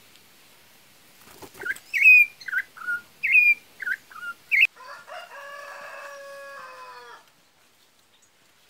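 A bird calling loudly in a quick series of about eight sharp notes that rise and fall, then a rooster crowing once for about two and a half seconds, trailing off at the end.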